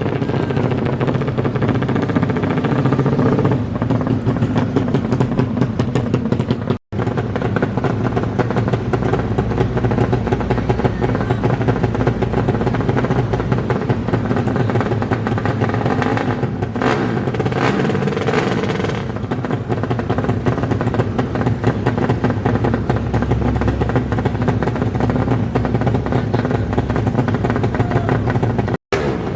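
DOHC racing motorcycle engines running and revving. The sound cuts out abruptly for an instant about seven seconds in and again near the end.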